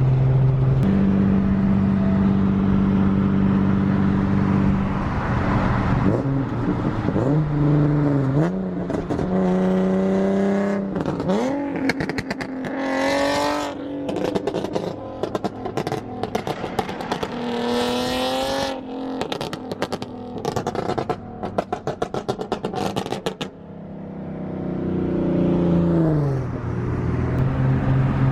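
Nissan 370Z's 3.7-litre V6 through a full Tomei exhaust, pulling hard: the revs climb and drop several times through gear changes, with a long run of rapid crackling between pulls. Near the end the revs fall and it settles back to a steady low drone.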